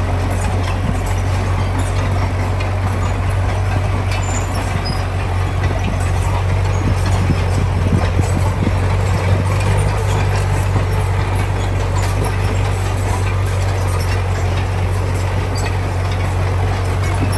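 Heavy diesel engine of a bulldozer or dump truck running steadily with a constant low drone, without revving up or down.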